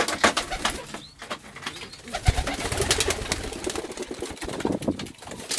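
Pigeons cooing in a loft, with scattered clicks and rustles throughout.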